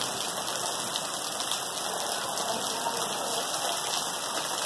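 Heavy rain pouring down in a steady, even hiss, splashing onto a flooded tiled walkway and glass roof panels.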